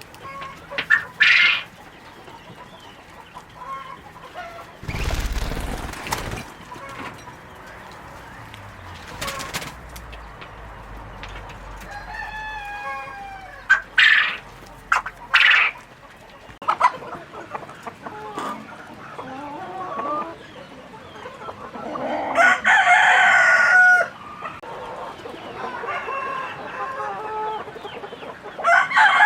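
Chickens clucking and calling in scattered short bursts, with a rooster crowing about two-thirds through and again near the end. A short burst of noise comes about five seconds in.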